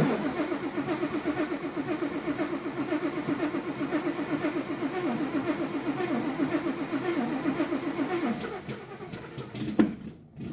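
Supercharged, cammed Ford Coyote V8 starting for the first time. It catches and runs with a rough, pulsing note that the builder calls rowdy for about eight seconds, then dies out. A few clicks follow as it stops.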